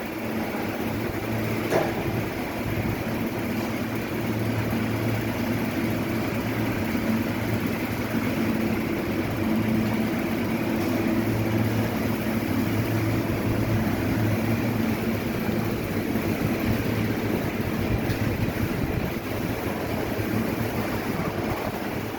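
Heavy machinery running steadily, a motor or engine hum with a low drone that fades out about three-quarters of the way through.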